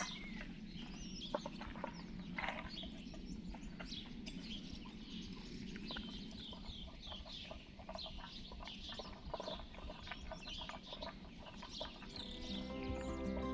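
Small birds chirping repeatedly over a steady low rumble, with soft instrumental music coming in near the end.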